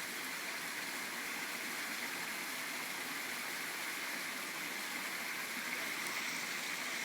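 Water spilling steadily over a small waterfall from a hot tub into a swimming pool.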